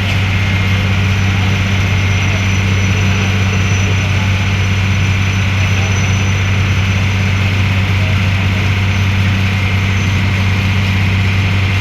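Passenger ferry's diesel engine running steadily: a constant low drone with a fainter noisy rush above it.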